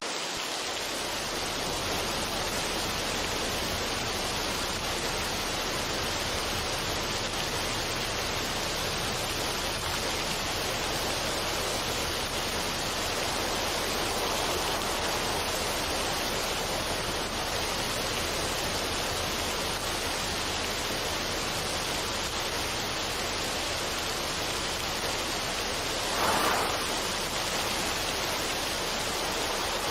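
Steady, even rushing noise with no tune or rhythm, with one brief louder swell near the end.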